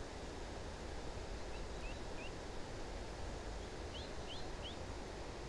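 Steady outdoor riverbank background noise with a low rumble, over which a small bird gives three short, high, rising chirps about one and a half seconds in and three more about four seconds in.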